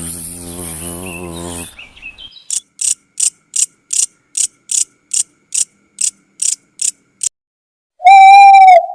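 Animal calls in sequence. A low pitched call ends about two seconds in. It is followed by about a dozen short, high, insect-like chirps, evenly spaced at roughly three a second. Near the end a loud, clear, whistle-like call is held for almost a second.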